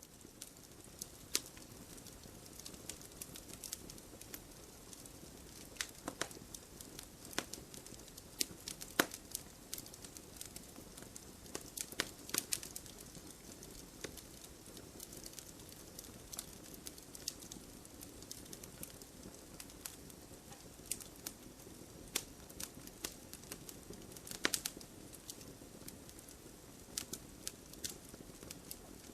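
Campfire burning: wood crackling with many irregular sharp pops and snaps over a steady low hiss of the flames.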